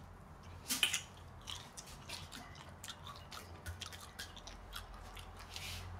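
A person biting into and chewing a soft piece of food close to the microphone. The wet mouth clicks come irregularly, with the loudest bite about a second in.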